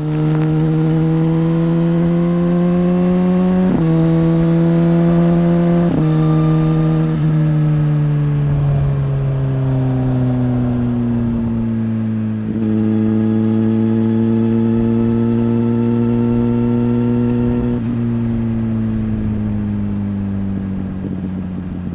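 Suzuki GSX-R1000R's inline-four engine under way: revs climb and drop at quick gear changes about four and six seconds in, then fall slowly as the bike eases off and runs on at a steady, gradually sinking pitch.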